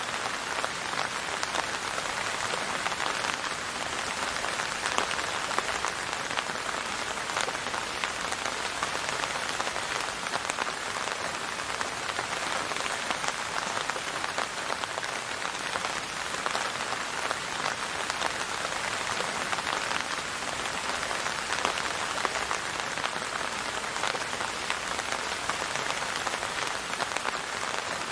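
Steady rain falling on a surface, an even patter of many drops with no letting up.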